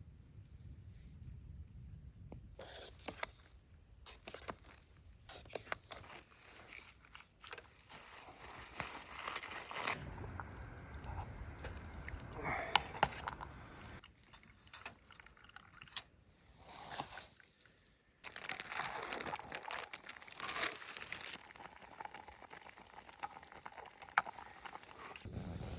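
A run of handling noises: crinkling and crunching with many sharp clicks, changing abruptly every few seconds.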